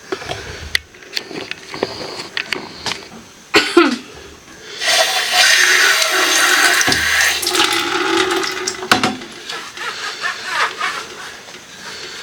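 Running water splashing for about four seconds as a part of a wet/dry mop vacuum is rinsed, with plastic parts clicking and knocking as they are handled before it.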